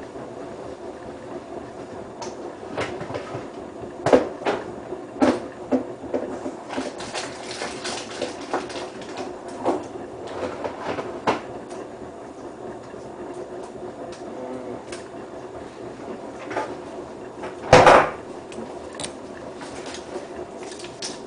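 Hotpoint WT960 washing machine on its delicates (handwash-wool) main wash: a steady motor hum with irregular knocks and clunks, and one loud thud a few seconds before the end.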